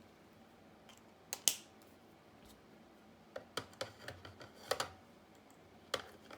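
Sharp plastic clicks and taps, a pair about a second in and a quick cluster past the middle: alcohol marker pens being capped, uncapped and set down on the table as the colours are swapped.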